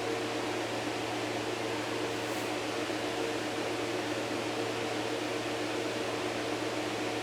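A fan or small motor running steadily: an even whir with a low hum and a few steady tones.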